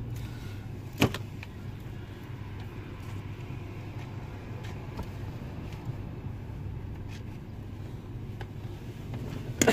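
Steady low hum of a car engine idling, with one sharp click about a second in and a short cluster of clicks near the end.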